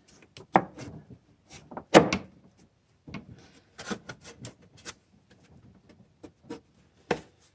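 Irregular knocks, clacks and rubbing of tools and metal parts being handled during repair work, loudest about half a second and two seconds in, with another sharp knock near the end.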